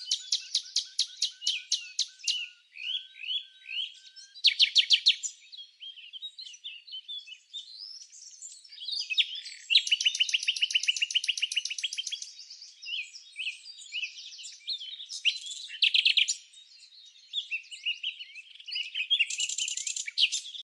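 Small birds chirping and singing in high, rapid trills of quickly repeated notes, with several louder bursts, the strongest about 4–5 seconds and 10–12 seconds in.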